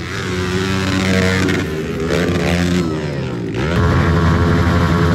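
Pit bike engines revving up and down as the bikes race past, their pitch rising and falling with the throttle. About three and a half seconds in, the sound changes to a denser, steadier drone.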